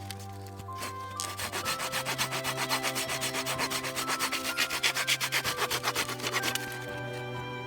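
Quick, even scraping strokes on wood, several a second, starting about two seconds in and easing off near the end, like a blade or saw working wood by hand. Background music with held notes plays throughout.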